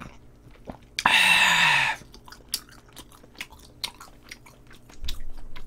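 Man chewing a mouthful of spicy braised chicken stew close to the microphone, with scattered sharp mouth clicks. About a second in he lets out a long 'ahh'.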